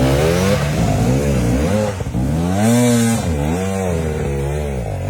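Off-road dirt bike engines revving hard, the pitch rising and falling over and over as the throttle is worked.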